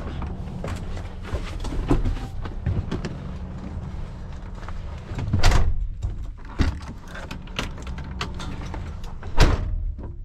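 Semi truck's diesel engine idling steadily under a run of metallic clicks and knocks from disconnecting the tractor from its trailer. Two loud clanks stand out, about five and a half and nine and a half seconds in.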